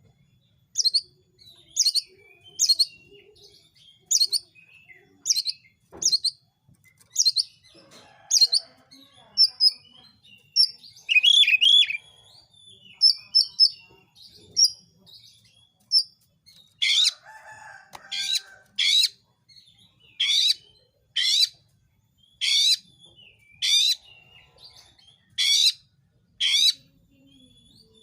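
Oriental magpie-robin (kacer) singing: sharp, high notes repeated about once a second, with a stretch of varied, quicker twittering about halfway through, and louder notes after that.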